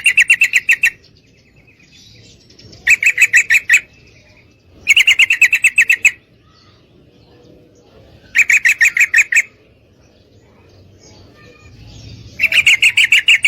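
Female yellow-vented bulbul (trucukan) calling to a male, in five bursts of rapid chattering notes, each burst about a second long with pauses between.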